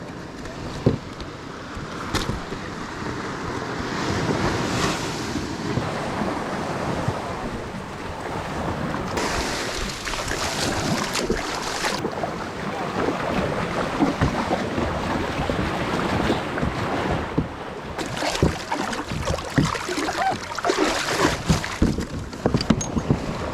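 Waves of a decent-sized swell washing onto the shore, with wind noise on the microphone and a run of knocks near the end.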